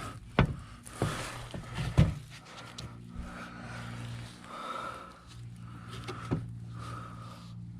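A few sharp knocks and clicks from hand tools and parts being handled while the van's front end is taken apart, the loudest about two seconds in, over a steady low hum.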